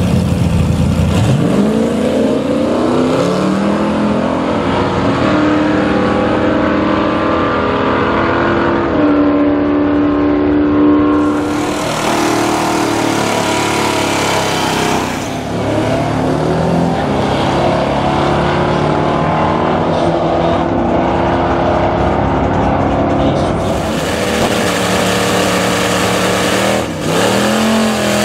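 Several V8 muscle cars revving at a drag strip start line and accelerating away one after another, the engine pitch climbing again and again. Near the end a burnout adds tyre noise to the engine.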